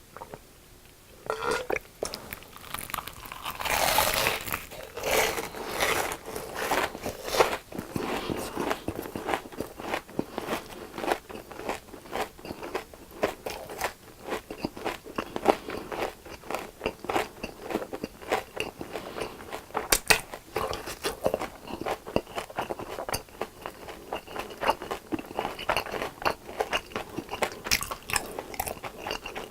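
Close-miked biting and chewing of crisp fried food, a dense run of crackly crunches that starts about a second in and is heaviest a few seconds later.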